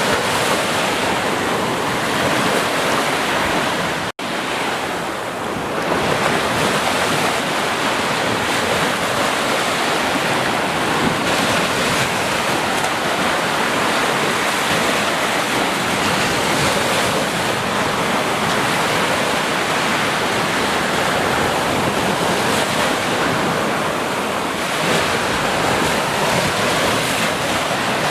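Steady, loud rushing water, an even wash of noise with no distinct splashes, of the surf or waterfall kind. About four seconds in it drops out for an instant and comes straight back.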